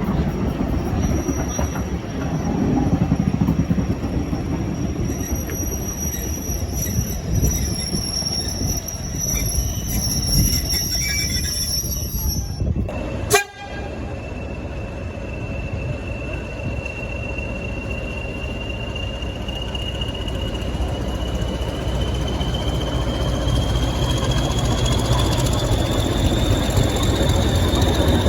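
Diesel train on rails: wheels squealing with thin high tones over a steady engine note through the first half. After a sharp break about halfway, a whine rises slowly in pitch as the locomotive sound grows steadily louder.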